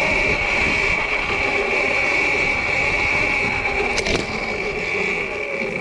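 Sur-Ron electric dirt bike riding at a steady speed: a constant high whine over a rush of wind and tyre noise, with a sharp click about four seconds in.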